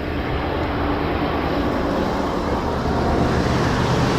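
Tow truck engine and road noise heard from inside the cab while driving: a steady drone with a continuous hiss.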